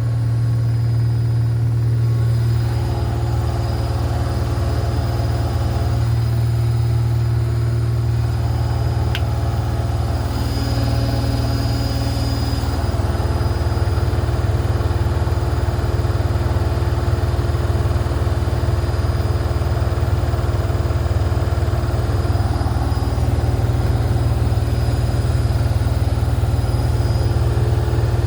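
Washing machine running with a steady, loud motor hum and a few steady higher tones, with one short tick about nine seconds in.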